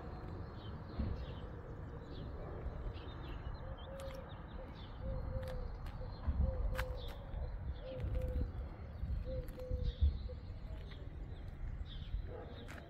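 Birds calling: a low call repeated about six times at an even pace in the middle, over scattered short high chirps, with a low rumble and a sharp bump near the end.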